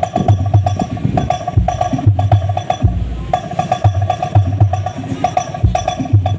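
DJ remix dance music played loud through a large subwoofer-stacked sound system, with heavy repeating bass pulses and a clicking, woodblock-like percussion pattern over a steady beat.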